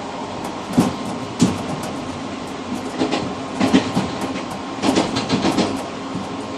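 Interregional passenger train running along the line, heard from inside the tail car: steady running noise with a steady hum. The wheels knock over rail joints, singly at first and in a quick cluster of several knocks near the end.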